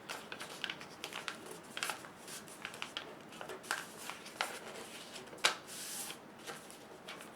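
A sheet of paper being folded and creased by hand against a tabletop: scattered faint crinkles, rustles and small taps.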